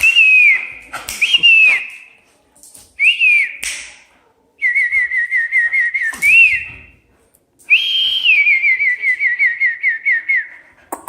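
A person whistling in several loud phrases: short notes that rise and fall, then two long runs of quick warbling trills.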